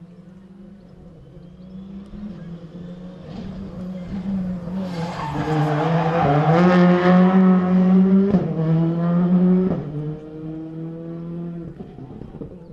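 Rally car approaching and passing at full throttle, its engine note climbing and then dropping sharply twice at upshifts as it goes by, with tyre noise at its closest, then fading away.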